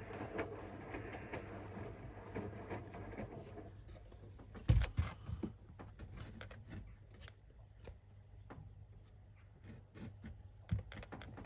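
Hoover front-loading washing machine in its wash phase: a steady hum with laundry tumbling in the drum, which goes quieter about four seconds in. A single loud knock comes just before the five-second mark, followed by a few light clicks.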